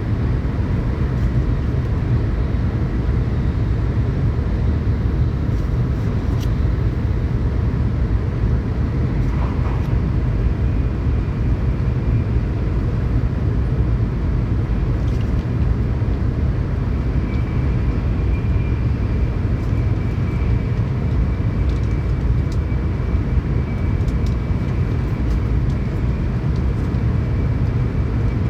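Steady running noise of a Shinkansen train at speed, heard from inside the passenger car: a constant low rumble of wheels and rails, with a faint high steady tone coming in about halfway.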